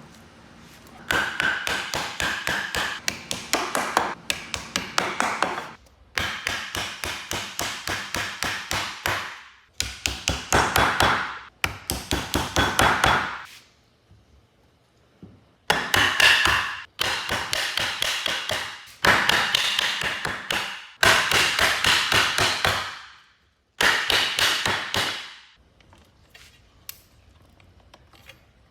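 Hand-tool work on wood: rapid, evenly repeated sharp strokes, several a second, in runs of one to four seconds with short pauses between.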